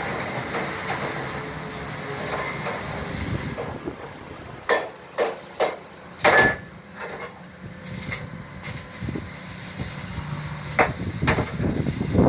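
Metal being struck: after a few seconds of steady shop noise, four sharp knocks come in quick succession mid-way, and two more near the end.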